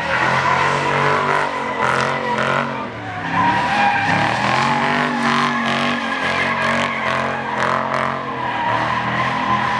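Car tyres squealing continuously as a car spins its wheels under power, with the engine held at high revs underneath; the squeal wavers in pitch without letting up.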